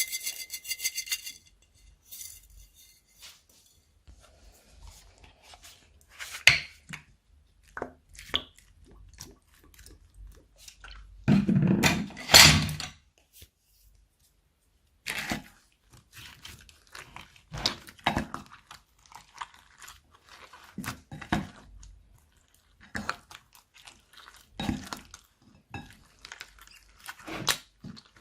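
Slime being squished and worked by hand, making scattered sticky clicks and pops, with a louder, denser run of crunching about halfway through.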